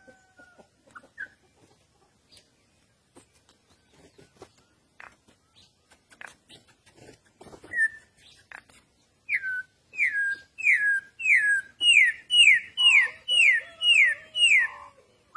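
Corrupião (campo troupial) singing: after scattered faint clicks and a few short notes, a loud run of about nine whistled notes begins about nine seconds in. Each note slides downward, and they come in quick succession.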